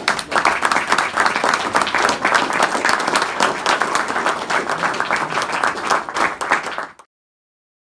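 Audience applauding, a dense, steady round of hand clapping that cuts off suddenly about seven seconds in.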